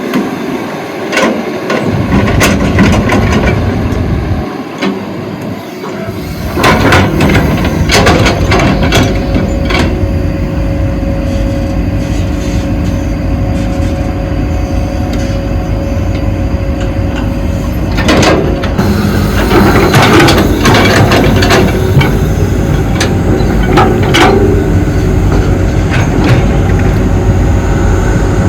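Excavator working: diesel engine running under load, with scattered sharp knocks and clatter, louder from about six seconds in.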